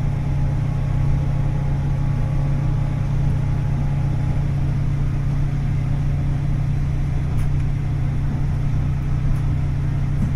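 Running sound of diesel railcar KiHa 40-524, with its DMF15HSA six-cylinder diesel engine: a steady low drone of engine and wheels on the rails. Faint whining tones fade out about four seconds in.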